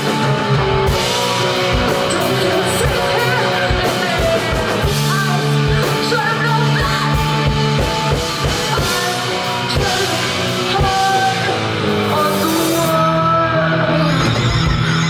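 Live rock music with drums, guitar and singing, loud and dense; the sound thins out in the upper range about thirteen seconds in.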